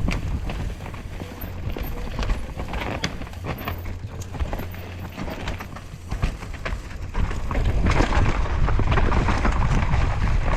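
2023 Devinci Chainsaw downhill mountain bike ridden down a rough trail: tyres on dirt, and the bike clattering and knocking over bumps, with a low rumble that grows louder about eight seconds in.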